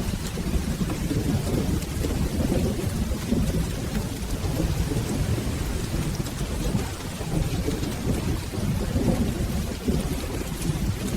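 Steady rain with a low, continuous rumble of rolling thunder. Faint small crackles are scattered through it, in keeping with a fire burning in a fireplace.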